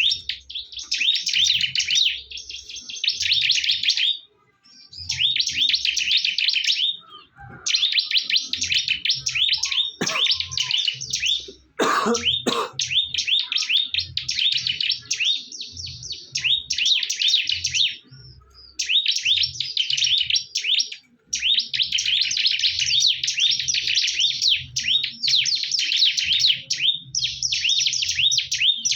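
Ciblek (bar-winged prinias) singing in fast, high chattering phrases a few seconds long, with short breaks between them. A few sharp knocks come about ten and twelve seconds in.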